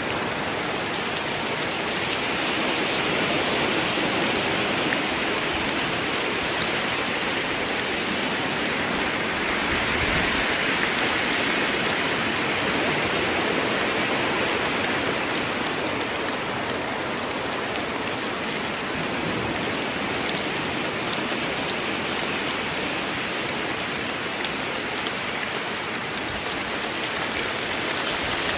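Steady heavy rain falling on a forest, an even hiss of many drops with scattered individual drips, swelling a little now and then.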